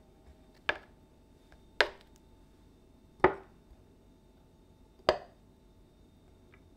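Metal kitchen tongs knocking four times against an enamel tray and a glass measuring jug of batter while lifting eggplant pieces and dipping them. Each knock is a sharp tap with a brief ring, about a second or more apart.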